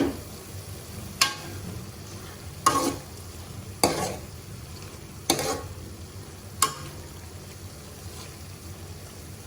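Food frying in a pan with a steady sizzle, while a spatula stirs it, scraping against the pan about six times at a slow, even pace of roughly one stroke every second and a half.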